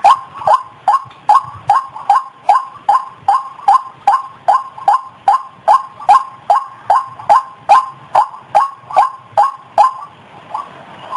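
White-breasted waterhen call played as a bird-trapping lure: a harsh note repeated steadily about two and a half times a second, each note dropping in pitch. Near the end the rhythm breaks up and the notes come weaker and uneven.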